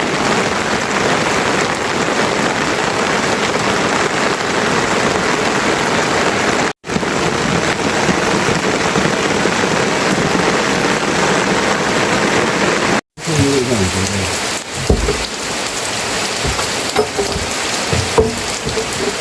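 Heavy rain falling steadily onto surfaces, broken by two sudden cuts. After the second cut the rain is a little lighter, and short pitched sounds with sliding pitch come through it.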